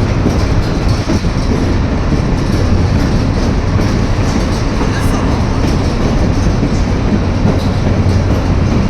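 White Pass & Yukon Route narrow-gauge passenger train running, heard from aboard: a steady, loud rumble of wheels on rail with faint scattered clicks.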